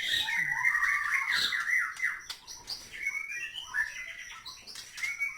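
Caged white-rumped shamas (murai batu) chirping and calling, a fast run of chirps for about the first two seconds, then scattered calls.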